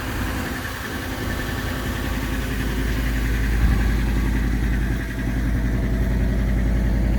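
2011 Lincoln Navigator's 5.4-litre three-valve V8 idling steadily just after a −20 °C cold start. It runs smooth, with no timing-chain or cam-phaser rattle.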